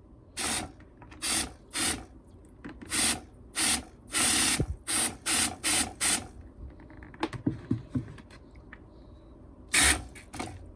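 Cleaning spray squirted in short hissing bursts, about a dozen in quick succession, then a few more near the end.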